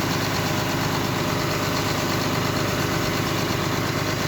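An engine running steadily at an even speed, with a constant hiss over it.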